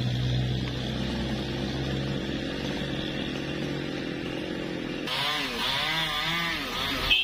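Newwest 628 two-stroke chainsaw running steadily. About five seconds in, its pitch starts rising and falling over and over. A short sharp knock comes right at the end.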